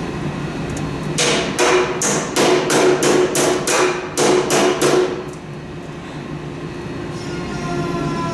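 Hammer blows during the teardown of a rusty snowblower: about a dozen sharp strikes, about three a second, that stop about five seconds in. A steady hum runs underneath.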